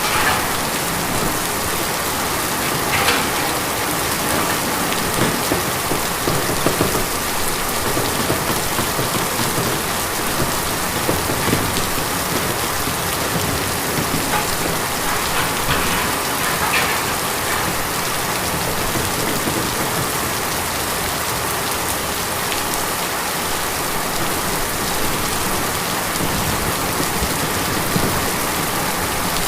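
Steady rain falling on a tin roof, a dense patter with scattered louder drops striking the metal.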